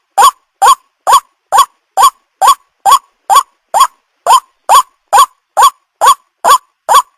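White-breasted waterhen (ruak-ruak) lure call: a short, rising 'kwak' note repeated at an even pace of about two calls a second, on and on without a break.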